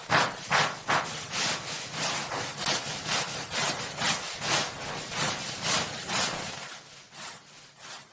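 Rapid back-and-forth rubbing strokes, about three a second, that grow fainter and die away near the end.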